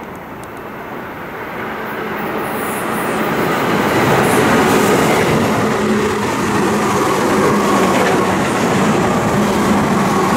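Tobu 10000-series electric train approaching and running past, growing louder over the first four seconds and then holding steady, with rumbling wheels on rail and a steady hum.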